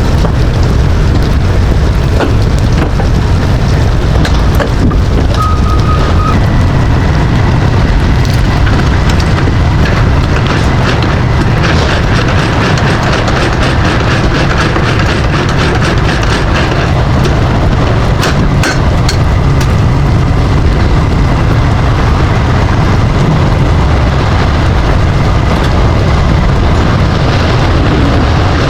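Semi truck on the move in the rain: steady low engine and road rumble, with rain and tyre spray hissing and ticking over it. A short tone sounds about six seconds in.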